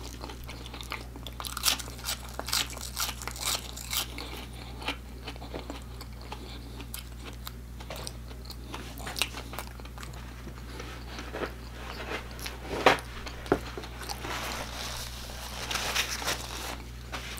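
Close-up chewing and crunching of sauce-dipped fried potatoes, with many sharp crunches in the first few seconds and scattered bites after that. Near the end comes a soft rustle of a paper napkin being rubbed.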